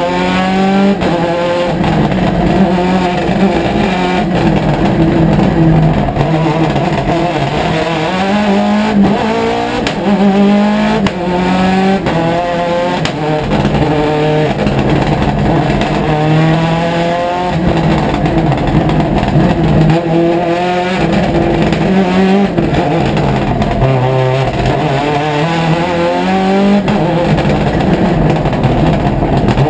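Mitsubishi Lancer Evolution rally car's turbocharged four-cylinder engine at full race pace, heard from inside the cabin: it revs hard, rising in pitch, then drops at each gear change, over and over through the gears.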